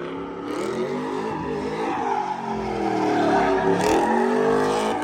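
Car engines revving, their pitch rising and falling again and again, with a faint tyre-screech hiss over them.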